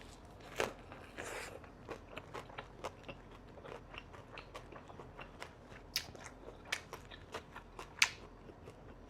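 Close-up chewing and crunching of a mouthful of boiled pork rolled with fresh herbs and crisp vegetables: irregular crisp crunches a few times a second, with a few louder bites standing out.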